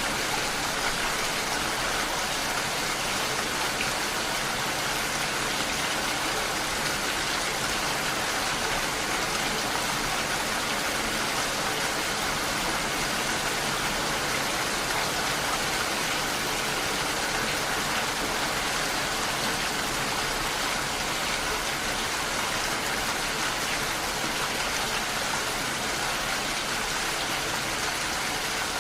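Steady rain striking window glass, an even, unbroken hiss.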